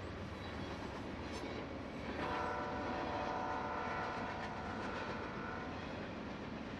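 Freight train rolling past, with a locomotive air horn sounding one steady chord for about three and a half seconds, starting about two seconds in.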